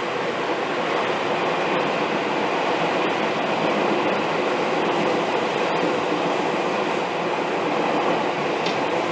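Seibu 2000 series electric commuter train running at a steady speed, heard from inside a passenger car: a continuous, even running noise from the wheels and running gear on the track.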